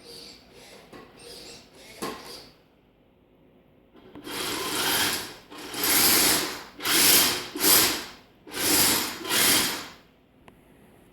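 Electric drive motors and tracks of a Kyosho Blizzard RC snow vehicle, run through a Sabertooth motor controller, whirring in short bursts: a few faint ones at first, then about six louder bursts of half a second to a second each from about four seconds in.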